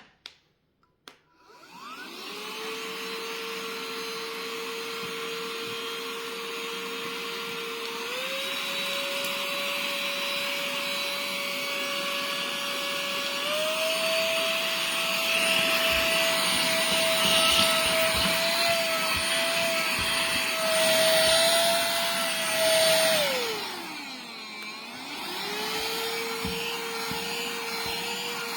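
Hayousui cordless mini vacuum and air duster's small high-speed electric motor whining steadily after a couple of button clicks. Its pitch steps up twice, through its three speed settings. Near the end it winds down and spins back up to the low setting.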